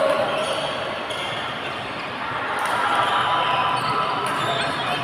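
Badminton rally: a few sharp racket strikes on the shuttlecock and footfalls on the court, with voices chattering in the background.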